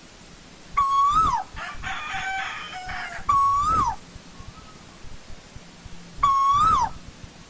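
Asian koel calling three times, evenly spaced: each a loud, clear whistled note that holds, lifts briefly and drops away. Between the first two calls comes a softer, rougher chattering call.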